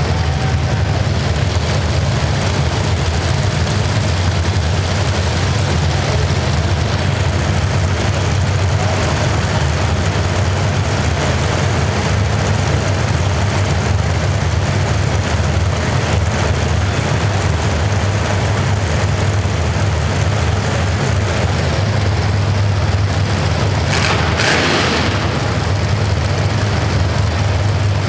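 A steady low drone with an even rushing noise over it, and a short hissing burst near the end.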